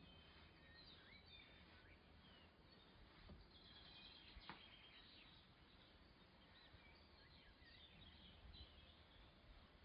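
Near silence: faint background hiss with scattered small bird chirps, and a single soft click about four and a half seconds in.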